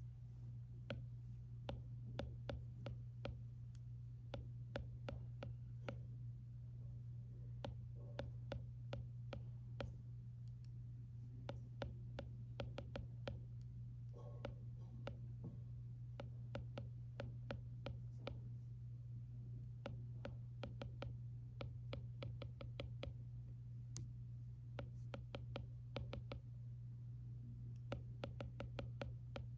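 Stylus tapping and writing on an iPad's glass screen: a steady stream of light, irregular clicks over a steady low room hum.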